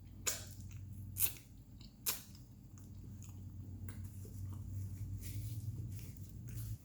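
Close-miked chewing of crunchy food: three sharp crunches in the first two seconds, then a run of softer crunching and chewing. A steady low hum sits underneath.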